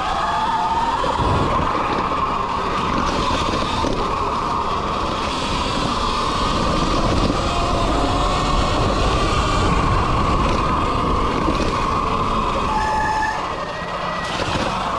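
Sur Ron X electric dirt bike under way on a trail: a steady whine from the electric motor and chain drive over the rumble and rattle of the ride.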